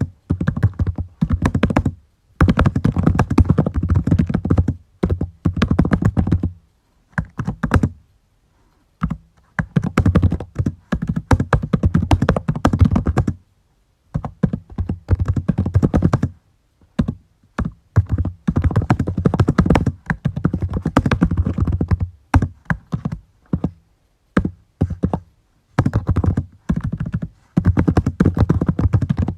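Typing on a computer keyboard in quick runs of keystrokes lasting a few seconds each, broken by short pauses.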